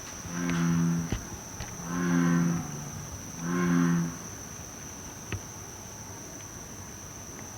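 American bullfrog calling: three deep, drawn-out croaks, each under a second long, about one and a half seconds apart. It is the 'abnormal noise' the owner had long blamed on his car.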